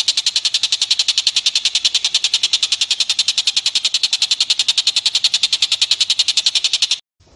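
Rapid, evenly spaced high-pitched call notes, about ten a second, from one of the compilation's bird or squirrel calls. The train cuts off suddenly near the end.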